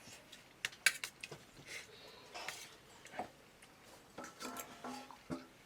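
A few scattered light clicks and knocks, like small objects being handled, with a faint voice in the background about four seconds in.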